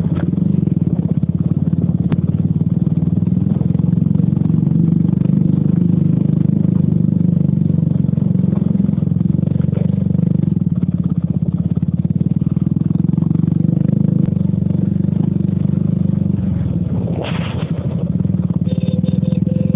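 Bajaj Avenger 220's single-cylinder engine running steadily while the motorcycle is ridden, heard from an action camera on the bike, with a brief louder noise near the end.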